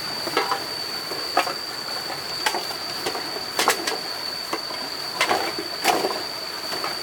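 Irregular knocks and clatters, a few seconds apart, over a steady high-pitched whine.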